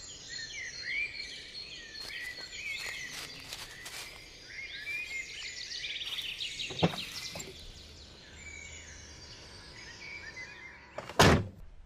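Outdoor ambience of many small birds chirping and twittering over a steady background hiss. A sharp knock comes about seven seconds in, and a louder knock or thump near the end.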